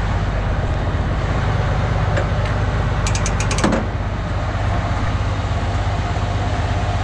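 Tri-axle rollback truck's diesel engine idling with a steady low rumble; about three seconds in, a quick run of clicks rattles briefly.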